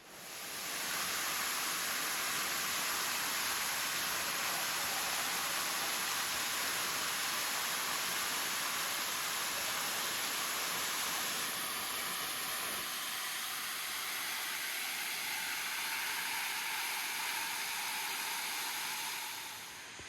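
A waterfall rushing: a steady, loud hiss of falling water that starts suddenly, loses some of its low rumble about two-thirds of the way through, and drops away just before the end.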